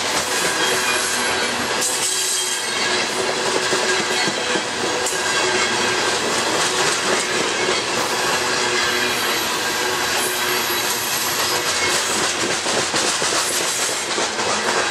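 Freight train of coal hopper cars rolling past close by: a steady loud rush and rumble of steel wheels on rail, with rapid clicks of the wheels over the rail joints and faint steady wheel-squeal tones.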